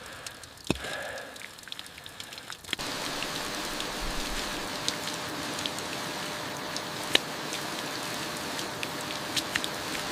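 Steady rain sets in suddenly about a quarter of the way in: an even hiss with scattered drop ticks. Before it there is a quieter spell with a few sharp ticks.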